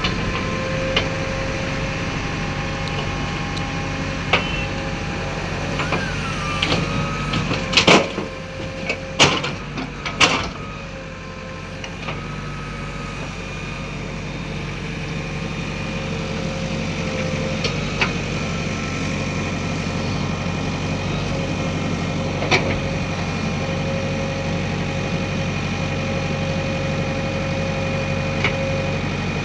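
Diesel engine of a JCB 3DX backhoe loader running steadily while it works, with a steady whine over the engine. Three sharp metallic clanks come about eight, nine and ten seconds in.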